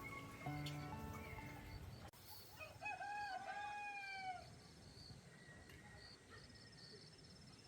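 A rooster crowing once, a call of almost two seconds near the middle, over a steady pulsing chirp of crickets.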